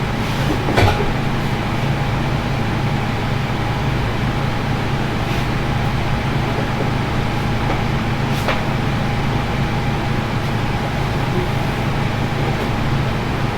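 A steady low mechanical hum with a thin constant whine over it, broken by a few sharp clicks, the loudest about a second in.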